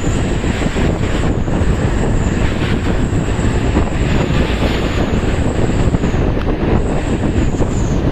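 Heavy truck running close by: a loud, steady rumble of engine and road noise with a thin high whine over it.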